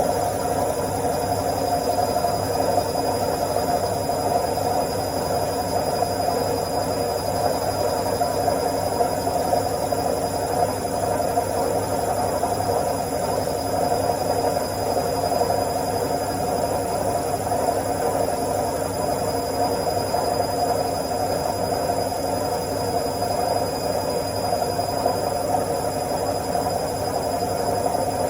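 Washing machine on its spin cycle: a steady mechanical hum and whir with no change in speed.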